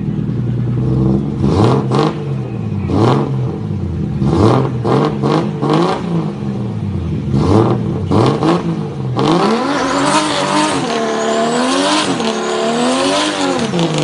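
Nissan RB straight-six engine revved in repeated sharp blips, then held high from about nine seconds in as the rear tyres break loose into a burnout, with a loud hiss of spinning, squealing tyres over the wavering engine note.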